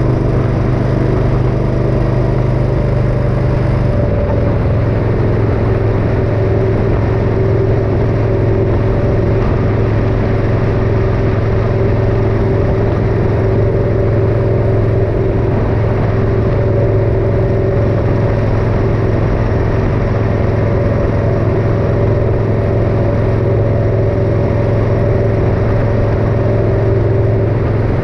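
Motorcycle engine running steadily while riding, its note shifting slightly about four seconds in and then holding even.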